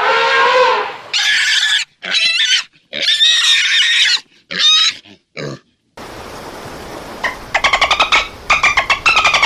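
A pig squealing in about five short, separate squeals. After a change of background, a different animal gives a rapid, pulsing call near the end.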